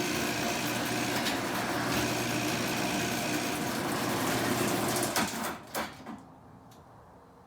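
Twenty-year-old garage door opener running as the door rolls up, a steady mechanical whir, then stopping about five seconds in with a few clunks as the door reaches fully open.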